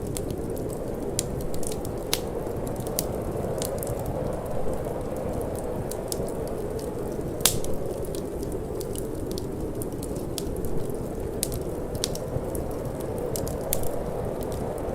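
Wood fire crackling with frequent irregular sharp pops, the loudest about seven and a half seconds in, over a steady low rushing of wind.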